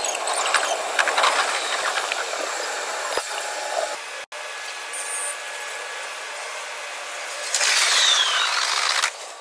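Train running noise: a steady rushing hiss with no deep rumble, cut off for an instant about four seconds in, then swelling again near the end with a brief falling whine.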